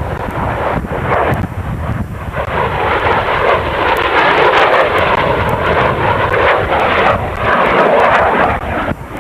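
Jet aircraft roaring past during an airshow display, a loud rushing jet noise that swells about two and a half seconds in and stays loud, heard through a VHS camcorder's microphone.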